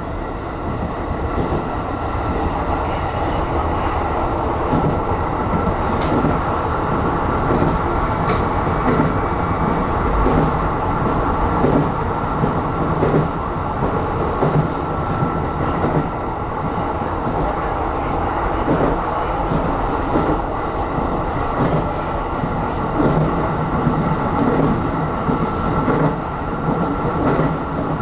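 Aonami Line electric train running along the track, heard from inside the leading car: a steady rumble of wheels on rail with a constant high hum, and a few sharp clicks.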